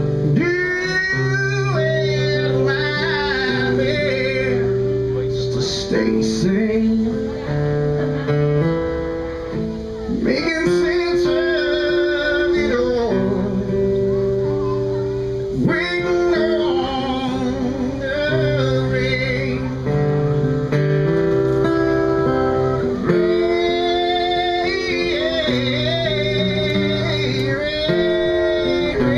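Live country band playing an instrumental break: acoustic guitar strumming under a melodic lead line that bends and wavers in pitch.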